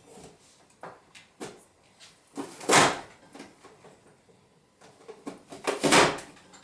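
Kitchen clatter: two loud, short knocks about three seconds apart, with a few light clicks between, as a lid is handled and diced carrot is put in.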